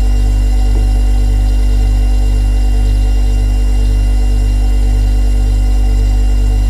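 Refrigerator compressor running: a steady low electrical hum with a faint waver about twice a second.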